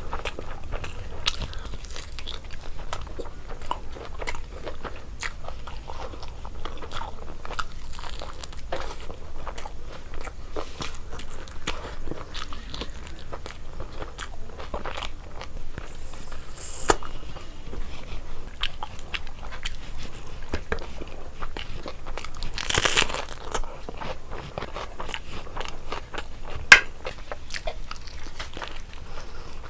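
Close-up eating sounds: a person chewing and crunching mouthfuls of biryani, a steady run of small wet clicks and bites. One sharp louder click comes near the end.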